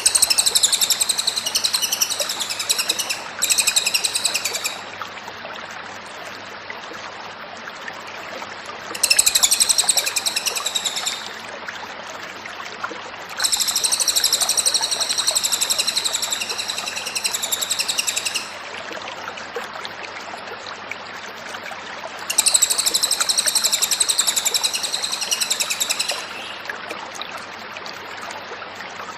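Cililin (lesser racket-tailed drongo) singing in five high, rapid, chattering phrases of one to five seconds each, with pauses of a few seconds between them, over a steady hiss.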